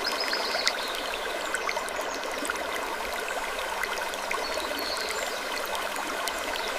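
Steady trickling, stream-like water noise, dotted with scattered faint clicks.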